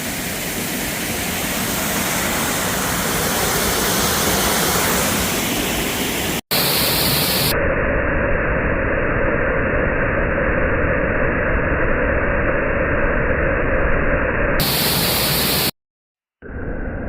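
Waterfall rushing with a loud, steady roar of falling water. The sound cuts out briefly about six seconds in and again near the end, and for long stretches it sounds duller, as if the recording changes.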